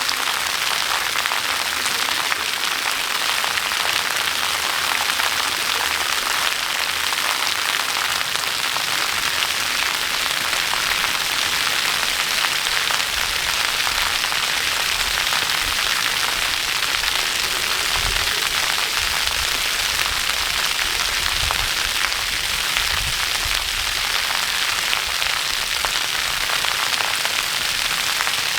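Steady, loud rushing of falling water, an even hiss with no let-up.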